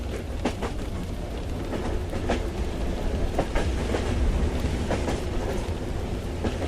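Steady low rumble of a train in motion, with irregular sharp clicks and taps over it.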